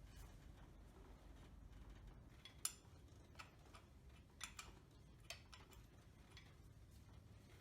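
Near silence with a few faint, scattered clicks and light clinks, the loudest a little over two and a half seconds in.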